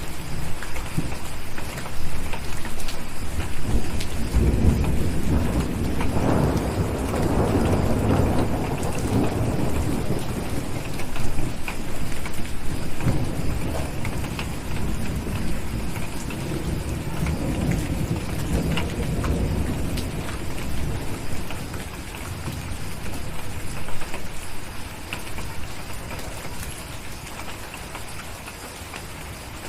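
Steady rain with a long roll of thunder. The rumble builds about four seconds in, is loudest for the next few seconds, then rolls away over roughly fifteen seconds. Scattered small ticks sound through it.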